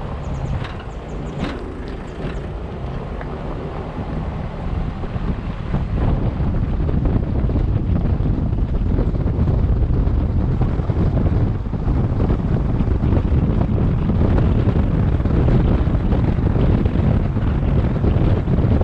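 Wind buffeting the microphone: a steady low rumble that grows louder about six seconds in.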